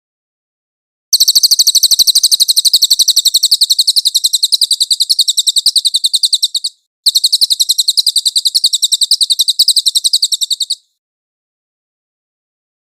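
A songbird's very fast rolling trill of high repeated notes, sung in two long runs of about six and four seconds with a short break between. A masteran recording of the kind played to train caged songbirds.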